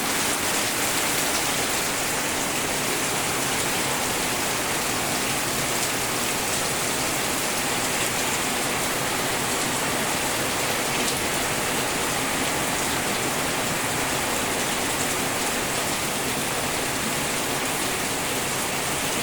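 Heavy rain falling steadily with wind, an even hiss of rain on surfaces.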